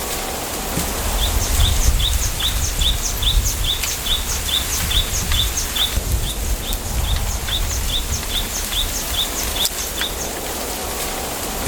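A small bird calling a rapid, steady series of short, high, falling notes, about three a second, over a low rumble of wind.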